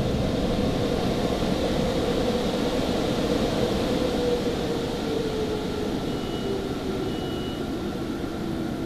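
Mark VII car wash's dryer blowers running, heard from inside the car: a steady rushing with a hum whose pitch slowly drops over the second half as the blowers wind down. Two short faint high tones sound near the end.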